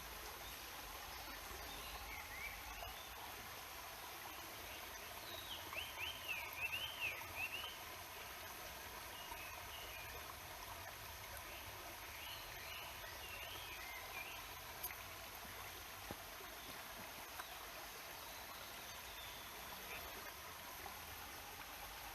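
Steady rush of a stream, with songbirds calling over it in quick up-and-down chirps; the loudest run comes about six seconds in, with shorter phrases later and one sharp click partway through.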